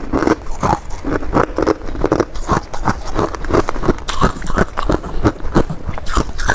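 Close-up chewing of a mouthful of crunchy freezer frost, a fast run of crisp crunches several times a second.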